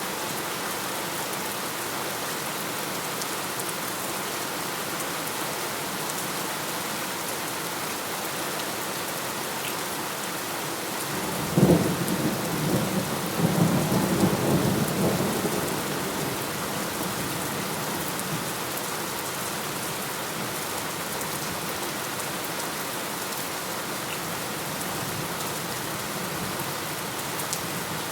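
Steady rain throughout, with a thunderclap about halfway through: a sudden sharp crack, then a few seconds of rolling rumble.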